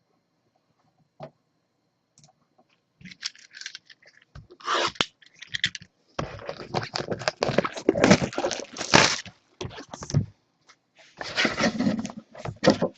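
Plastic wrap and cardboard crinkling, scraping and tearing as a sealed trading-card box is opened by hand, in scattered bursts that grow busier after a few seconds.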